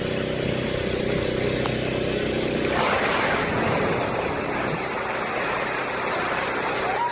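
An engine idling steadily; about three seconds in, a loud rushing, splashing noise sets in and slowly dies away.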